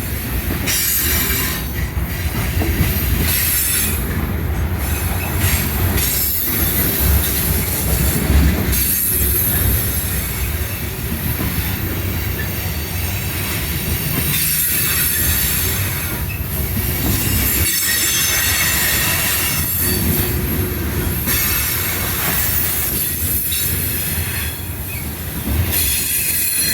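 CSX freight train's cars rolling past steadily, with a low rumble and high-pitched squealing from the wheels on the rails, dipping briefly every second or two.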